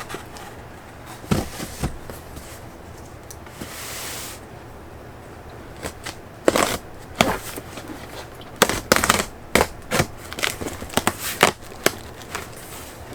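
Stacked black plastic plant pots and their packaging being handled and unpacked: irregular clacks, clatters and rustles, with a short scraping rush about four seconds in and busier clattering over the second half.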